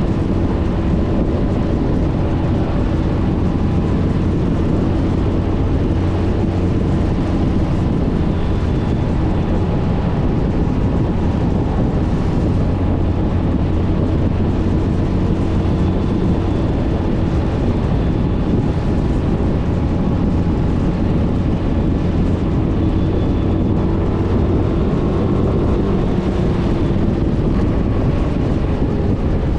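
Suzuki Burgman 400 scooter's single-cylinder engine running steadily while riding, its note shifting a little in pitch, with wind and road noise.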